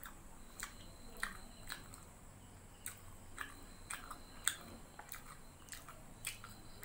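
Close-miked mouth chewing food with lips closed: soft smacking clicks at an uneven pace of about two a second.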